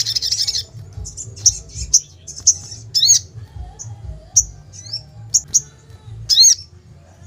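Sogon songbird calling in an excited, agitated state: a rapid trill for the first half second, then short, high, sharp chips about every half second, two of them with an arched, swooping shape, over a steady low hum.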